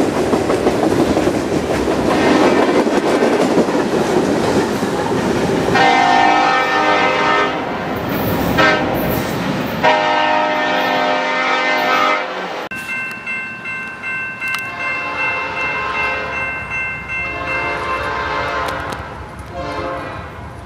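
Freight cars rolling past on the rails, then a diesel locomotive's air horn sounding several long blasts for a grade crossing as the train approaches.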